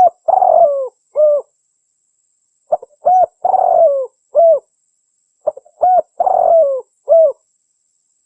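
Spotted dove (tekukur) cooing: a phrase of two short notes, a long coo that falls in pitch, then a last short coo, repeated three times about every two and a half seconds. It is a recorded call played as a lure to draw in wild spotted doves.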